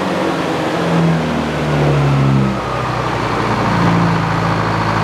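Old Frick sawmill running through a cut. Its engine note shifts in pitch during the first couple of seconds as the saw takes load, then settles into a steady drone.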